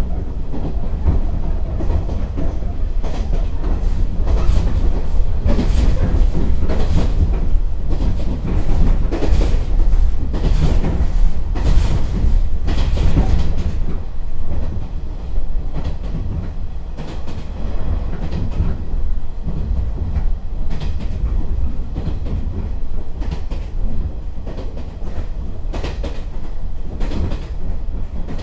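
Running sound inside a JNR 115-series EMU driving trailer (KuHa 115-552) under way on jointed 25 m rail: a steady low rumble with rail-joint clacks and the clattering rattle that is peculiar to the KuHa 115-550's bogies. It is a little quieter in the second half.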